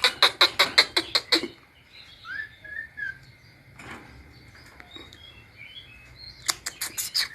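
Javan myna calling: a fast run of harsh chattering notes, about six a second, for the first second and a half, soft short chirps after it, and a second chattering run near the end.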